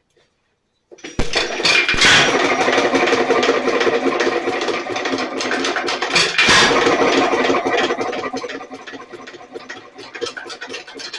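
Nelson Little Jumbo 1 1/2 HP single-cylinder hit-and-miss engine turned over and trying to run without catching. It starts about a second in, swells twice and fades toward the end. The owner thinks it is not getting enough gas, with the fuel check valve suspected of sticking.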